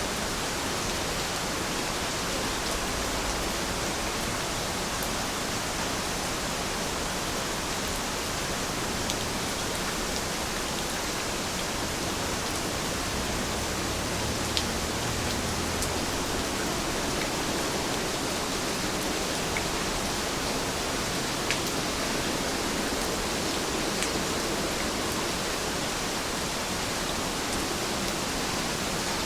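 Heavy rain falling steadily, an even hiss with a few faint drop ticks scattered through it.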